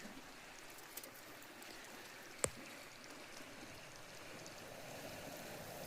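Campfire burning with a steady low hiss and one sharp crackle about two and a half seconds in. Near the end a rushing hiss of air starts to swell.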